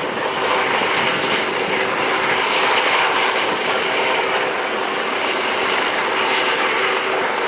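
Helicopter running overhead: a steady rush of turbine and rotor noise with a faint steady whine.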